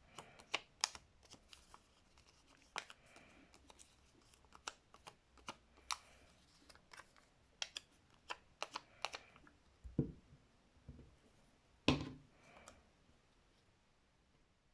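Faint scattered taps, clicks and rustles of paper and card being handled and pressed down on a tabletop, with two heavier knocks in the last few seconds.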